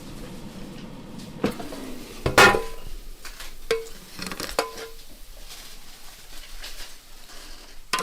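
Dishes and metal utensils knocking and clinking: a handful of sharp knocks, some leaving a short ringing tone, the loudest about two and a half seconds in, followed by lighter ticks.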